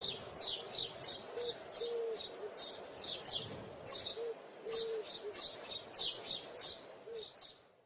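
Birds chirping: quick high chirps repeating about three to four times a second, with short lower notes now and then, over a faint steady hiss, fading out at the end.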